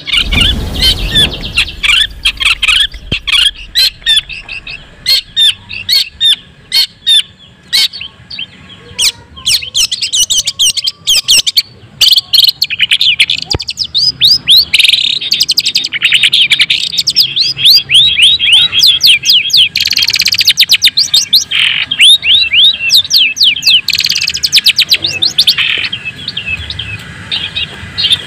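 White-breasted long-tailed shrike (cendet) in full, agitated song: a loud, fast, unbroken run of quick downward-sweeping notes, broken now and then by short scratchy chatters.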